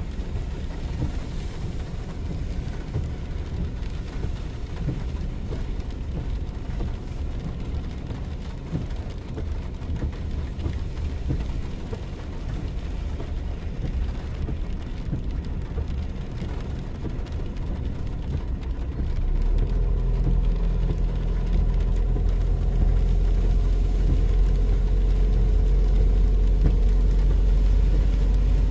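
Car driving: a steady low engine and road rumble. About two-thirds of the way through it grows louder, with a held engine note.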